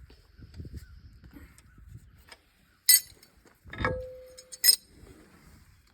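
Steel hand tools clinking together: three sharp metallic clinks about a second apart, the middle one a heavier knock that rings briefly.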